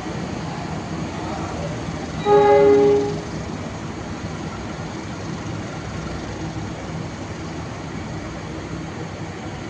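A train's horn sounds once, a short chord-like blast of under a second, about two seconds in, over the steady rumble of a train running.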